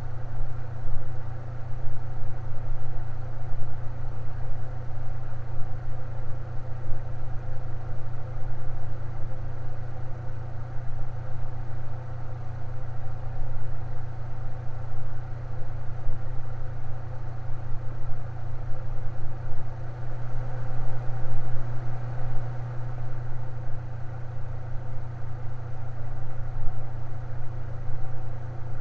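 Electric fan running with a steady low hum and soft whir, its hum swelling slightly for a few seconds about two-thirds of the way through.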